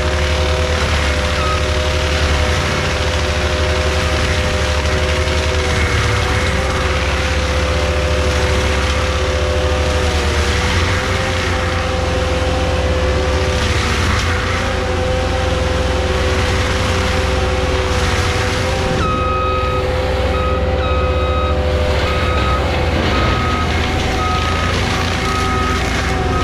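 Skid steer running steadily under load, with a slight wavering in its engine pitch. About two-thirds of the way through, a reversing alarm starts beeping about once a second.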